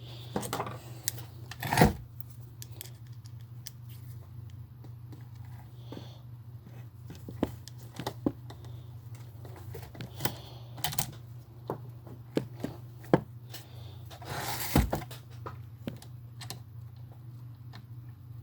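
Small plastic RC car parts being handled and fitted together on a desk: scattered light clicks and taps, with louder knocks about two seconds in and again about fifteen seconds in. A steady low hum runs underneath.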